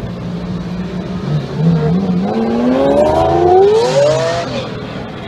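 Car engine running, then accelerating hard, its pitch climbing for about three seconds before dropping off.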